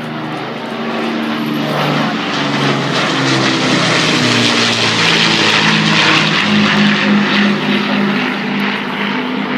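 Avro Lancaster bomber flying over, its four Rolls-Royce Merlin V12 piston engines and propellers giving a deep, steady drone. The sound grows louder to a peak about six to seven seconds in as it passes, then begins to ease.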